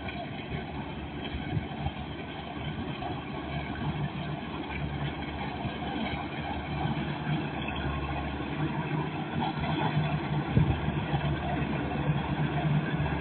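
Kubota DC93 combine harvester's diesel engine running steadily with its low hum, gradually growing louder.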